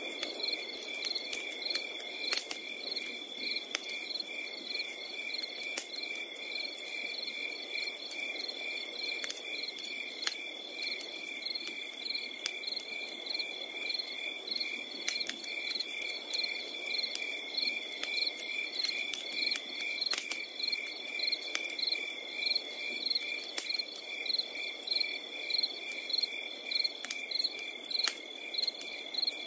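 Crickets chirping at night in a steady, even rhythm with a continuous high trill behind it, with scattered sharp pops and clicks from a crackling campfire over a soft low rush.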